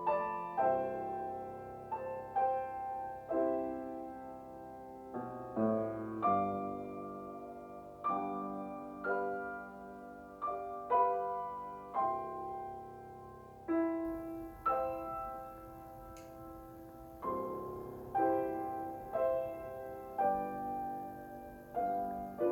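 Soft solo piano background music, single notes and chords struck one after another and left to ring. A faint hiss joins about halfway through.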